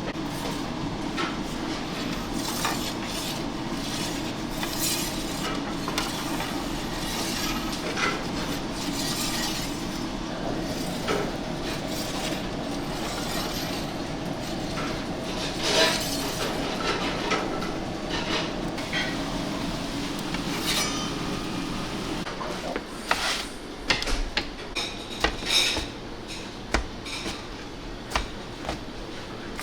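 Restaurant kitchen work: scattered clinks and knocks of dishes and utensils over a steady background hum, the knocks coming thicker and louder in the last several seconds.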